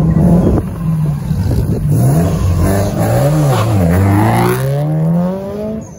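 Subaru Impreza's flat-four engine revved loudly as the car moves off: the pitch climbs and falls three times, then rises steadily for about two seconds as it accelerates away, dropping just before the end.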